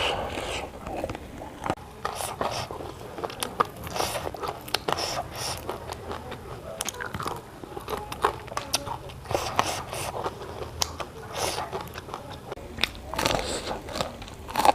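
A person chewing and biting food close to the microphone: a steady run of short clicks, crunches and wet mouth sounds.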